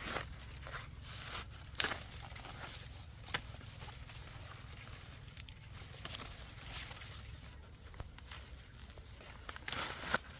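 Dry leaves and stalks rustling and crackling, with irregular sharp snaps and tearing sounds and a cluster of crackling near the end.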